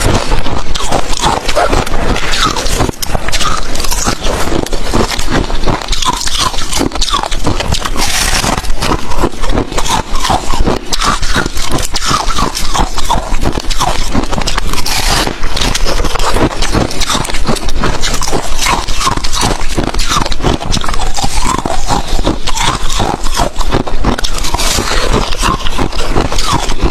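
Ice being chewed close to the microphone: continuous loud, crunchy cracking and grinding as the ice is bitten and crushed between the teeth.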